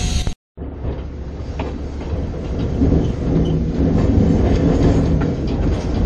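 Slow-moving train rolling along the rails: a steady low rumble of the locomotive with scattered clicks from the wheels on the track. The sound cuts out briefly about half a second in.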